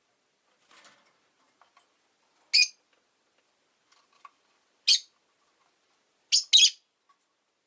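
Rosy-faced lovebirds giving short, shrill chirps: single calls about two and a half and five seconds in, then two calls in quick succession near the end, with fainter chirps between.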